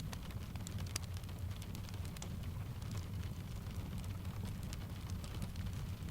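Fireplace crackling with sharp, irregular pops over a steady low rumble, layered with steady rain.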